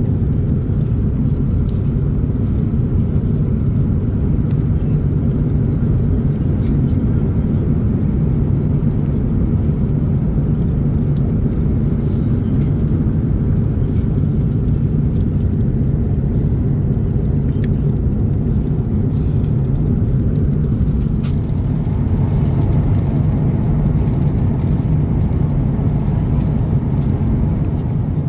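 Steady low drone of an Airbus A350-900 cabin in flight, engine and airflow noise, with a few faint clicks.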